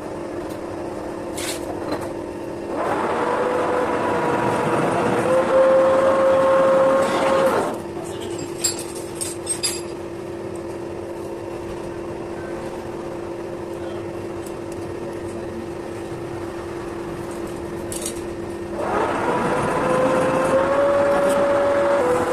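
Metal lathe running with a steady hum, with two spells of louder cutting noise and a whine that steps up in pitch, the first stopping about eight seconds in and the second starting near the end; a few light clicks come between them.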